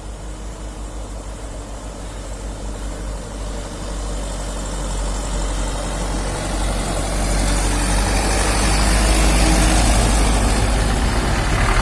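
Mitsubishi Canter light truck's diesel engine running, growing steadily louder, with a harsher, noisier edge in the last few seconds.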